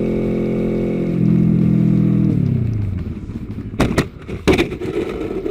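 Motorcycle engine running at a steady pitch, then dropping away as the bike slows, followed about halfway in by two sharp knocks and a clatter.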